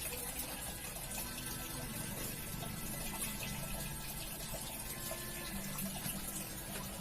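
Water running steadily while a carpet is washed, a continuous even rush.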